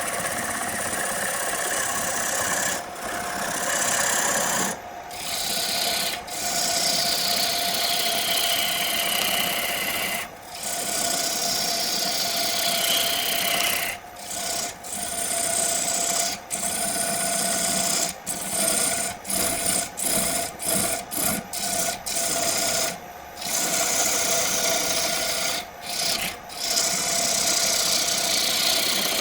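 Wood lathe running with a tool rasping against the spinning wood, the scraping sliding down in pitch now and then. The sound breaks off briefly many times, most often between about 18 and 22 seconds in.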